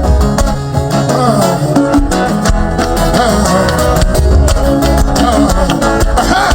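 Live worship band playing, with guitar over a strong bass line and regular drum hits, and voices sliding up and down in the mid range.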